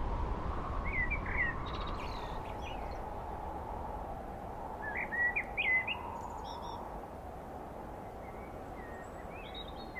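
Small songbirds chirping in short twittering phrases, about a second in, again around five to six seconds, and near the end, over a low rumble that slowly fades away.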